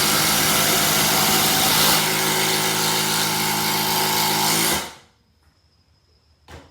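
Two 12V cordless impact drivers running at once, hammering long 4-inch screws in. The sound shifts a little about two seconds in and cuts off suddenly about five seconds in as the screws bottom out, followed by a single short knock near the end.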